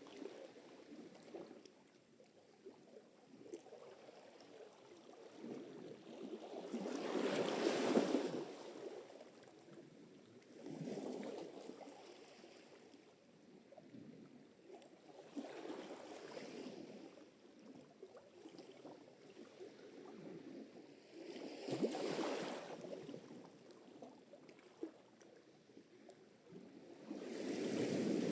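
Sea surf: waves washing in and breaking one after another every few seconds, with softer swishing water between. The loudest wave comes about eight seconds in, and another builds near the end.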